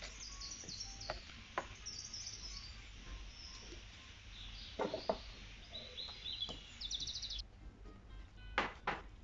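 Small birds chirping and trilling, with a few light knocks, two of them close together near the end.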